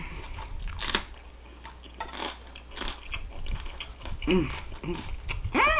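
A person chewing food close to the microphone, with wet biting and crunching sounds, then two short hums of the voice near the end.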